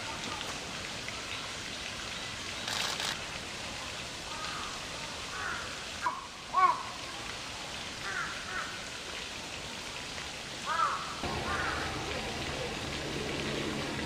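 Outdoor ambience with a steady hiss, through which several short birdcalls sound, singly and in pairs. The loudest comes about six and a half seconds in. A low hum comes in near the end.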